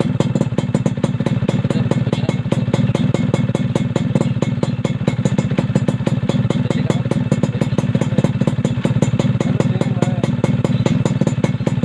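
Yamaha F1ZR two-stroke engine idling steadily through an aftermarket bulged racing exhaust, a fast, even popping beat.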